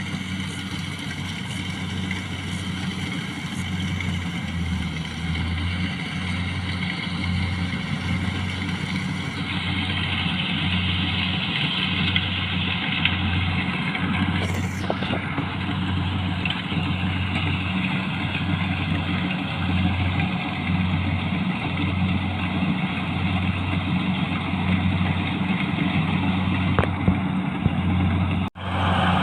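Tractor engine running steadily while driving, with a low throb that swells and fades every second or so. The sound cuts out for a moment near the end.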